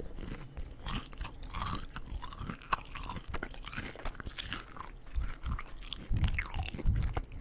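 Close-miked chewing of crunchy fried food: a steady run of crunches and bites, with heavier low chewing thuds in the last couple of seconds.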